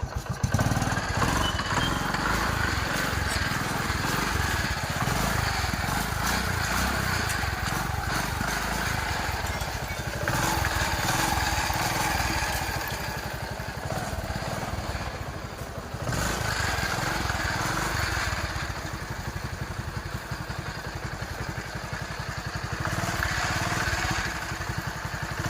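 TVS XL 100 Heavy Duty moped's single-cylinder four-stroke engine running, its revs rising and falling a few times. The tappet clearance has just been reset on a rocker and exhaust valve that had too much play, and the engine runs with the tappet noise the mechanic says is now cured.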